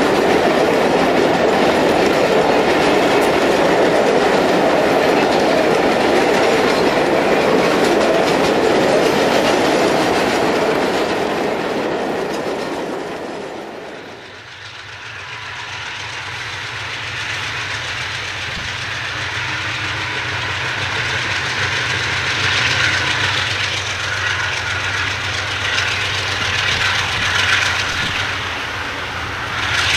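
Ore hopper cars rolling past with a steady clickety-clack of wheels over rail joints, fading out about halfway through. Then GE diesel locomotives are heard approaching, their engines droning low and slowly growing louder.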